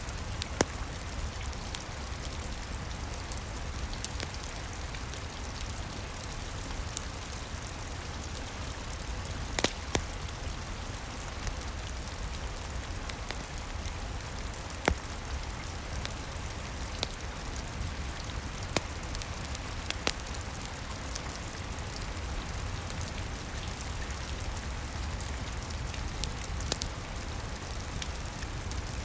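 Steady rain with a low rumble, and a wood fire crackling with scattered sharp pops, a few of them louder than the rest.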